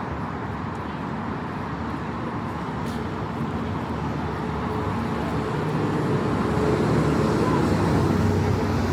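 City street traffic noise, with a motor vehicle's engine drawing nearer and growing louder through the second half.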